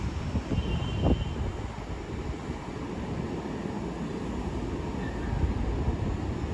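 Long Island Rail Road train rumbling along the tracks, with a sharp thump about a second in.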